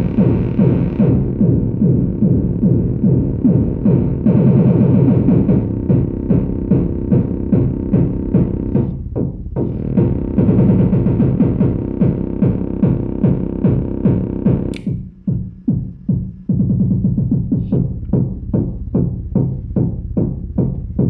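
Dreadbox Dysmetria analog percussion synthesizer playing a fast, even, sequenced pattern of low pitched drum hits. About fifteen seconds in, a sharp high zap sounds and the pattern briefly thins out before picking up again.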